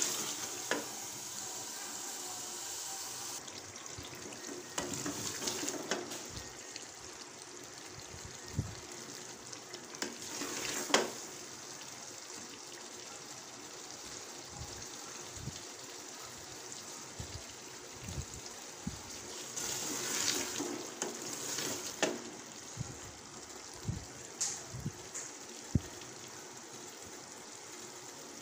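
Minced meat and diced potatoes frying in oil in a pot, a steady sizzle, stirred with a wooden spoon in the first few seconds. Scattered short clicks and knocks over it, the loudest about 11 seconds in.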